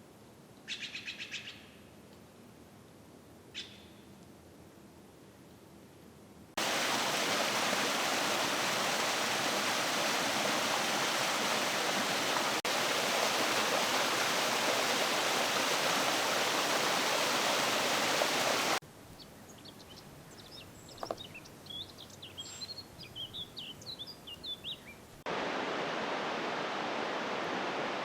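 Rushing water of a forest creek, a steady loud rush that cuts in after about six seconds and cuts out abruptly about two-thirds through, then cuts back in near the end. Between these, quieter forest with small birds: a short rapid trill about a second in, a single chirp, and a scatter of chirps in the later quiet stretch.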